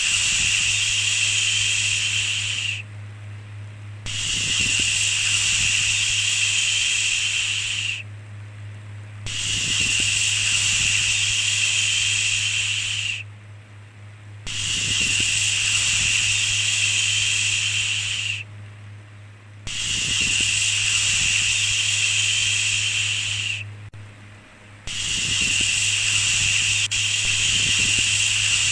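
A long 'shhh' shushing sound repeated evenly, each shush lasting about four seconds with a pause of about a second between them, over a steady low hum.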